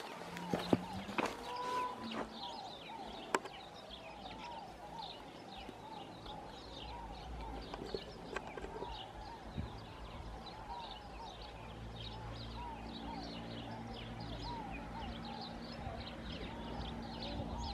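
Many small birds chirping continuously, short repeated calls overlapping one another. A low steady hum joins in about two-thirds of the way through.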